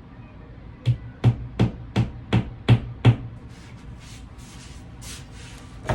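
A quick run of seven sharp knocks, about three a second, each with a low thud, followed by fainter hissing.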